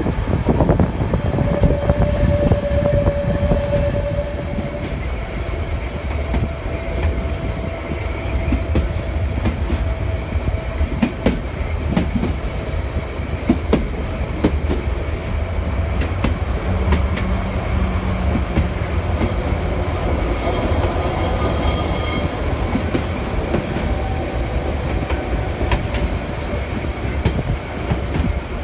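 Narrow-gauge train running, heard from an open carriage platform: a steady rumble of wheels on rail with clicks over the rail joints. There is a thin squeal of wheels on the curve in the first few seconds, and the locomotive's horn sounds once, for about a second and a half, about 20 seconds in.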